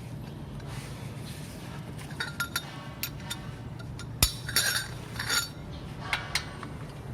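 Steel hand tools clinking: a 21 mm socket and wrench being handled against the brake caliper, in scattered light clinks with a short ring and one sharp metallic knock about four seconds in, over a steady low hum.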